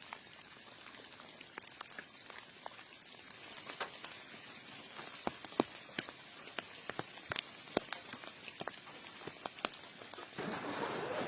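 Rain falling and dripping, with irregular sharp drop ticks over a steady patter. A louder hiss sets in near the end.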